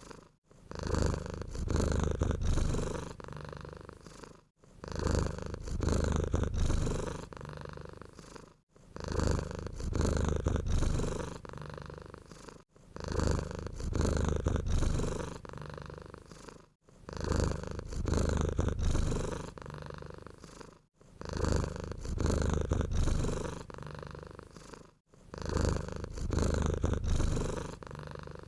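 Domestic cat purring close up: a deep, steady rumble that swells and eases in a cycle of about four seconds, with a brief break between cycles.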